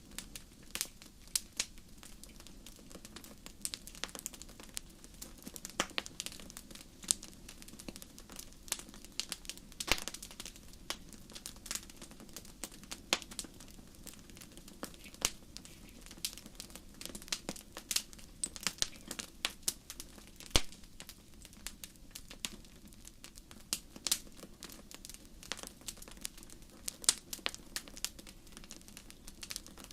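Wood fire crackling: irregular sharp pops and snaps, several a second and of uneven loudness, over a steady low murmur.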